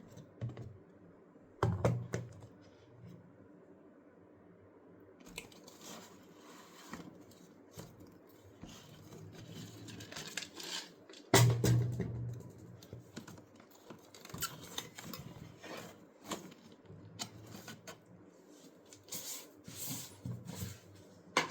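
Kitchen handling sounds as gram flour is spooned into a bowl: irregular spoon clicks, scrapes and rustles, with two louder knocks about two and eleven seconds in.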